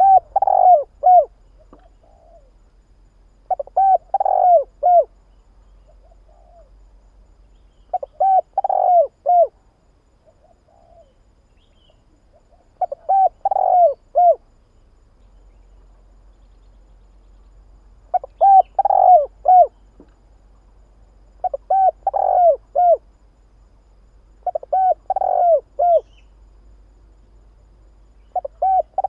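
Spotted dove cooing: a short phrase of four or five falling coos, repeated about every four seconds.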